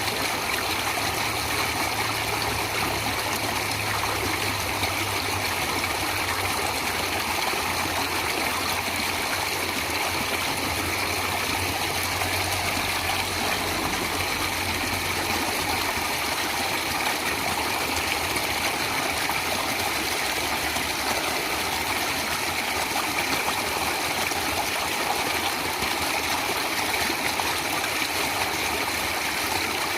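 A flowing stream: water running steadily, an even wash of sound with no breaks.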